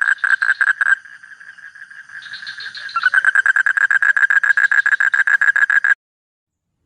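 A rapid trilling animal call, about ten even pulses a second at one high pitch, softer for a couple of seconds in the middle, then cutting off suddenly about six seconds in.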